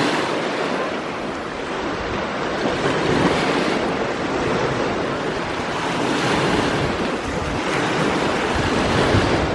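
Sea waves washing onto the shore in a steady, continuous rush that swells and eases every few seconds.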